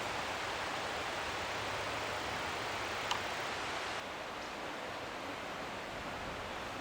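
Steady rushing water of a mountain stream, with a single sharp click about three seconds in. It drops a little in level about four seconds in.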